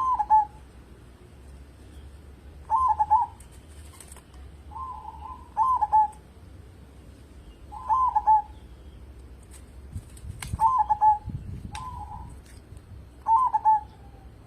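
Zebra dove cooing: a string of short, warbling coo phrases, repeated every one to three seconds.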